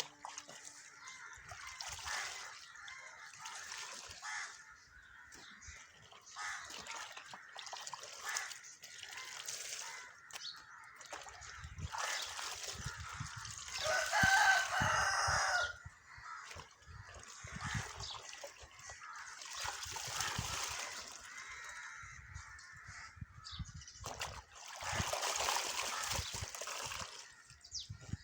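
Clothes being hand-washed in water, with uneven sloshing and splashing, and a rooster crowing once, loudly, about fourteen seconds in.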